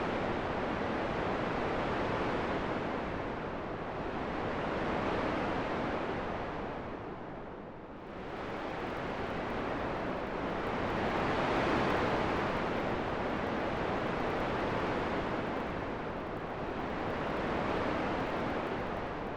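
Wind blowing in slow gusts: a steady rushing that swells and fades every few seconds, dipping lowest about eight seconds in.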